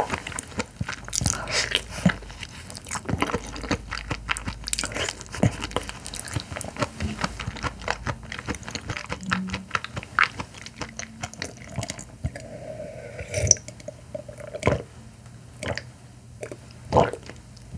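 Close-miked chewing of raw carabinero shrimp, a dense run of quick mouth clicks and smacks that thins out over the last few seconds. Near the end come a few separate sounds of sipping and swallowing from a wine glass.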